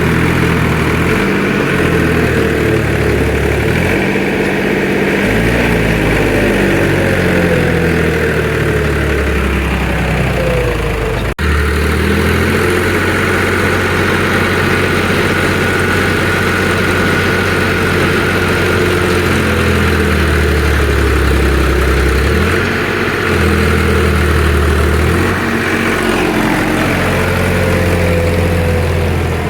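Tractor diesel engine running under load. Its pitch sinks over several seconds early on, rises again near the end, and breaks off abruptly about eleven seconds in.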